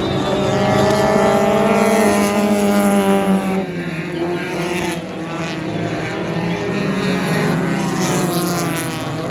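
Sports compact race car engine running hard around the track, loudest early on and falling in pitch as the car goes past, then climbing in pitch again near the end.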